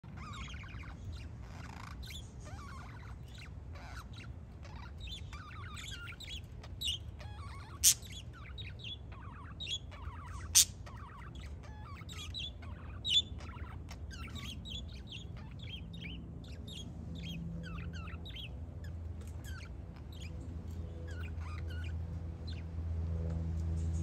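Small birds chirping in many short, quick calls that thin out near the end, with two sharp clicks a few seconds apart near the middle. A low steady hum underneath grows louder toward the end.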